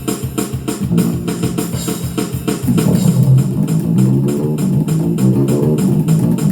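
Bass guitar played over a fast, even drum beat. The bass notes get louder and busier about two and a half seconds in.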